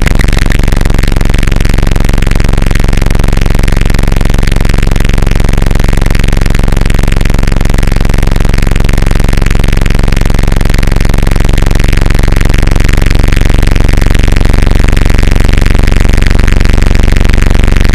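Harsh noise music: a loud, dense, distorted wall of noise over steady low droning tones, with no clear separate hammer blows.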